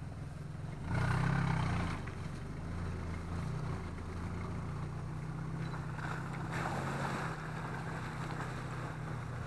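Off-road 4x4's engine running, revving up about a second in, then settling into a steady low drone with another slight rise near the end.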